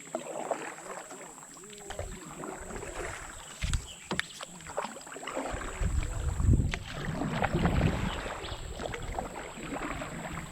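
Canoe paddling: paddle strokes splashing and swishing through the water, with a few sharp knocks about four seconds in and a loud low rumble from about six to eight seconds in.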